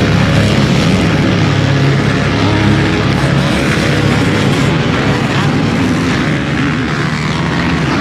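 Motocross motorcycle engines running and revving, loud and continuous.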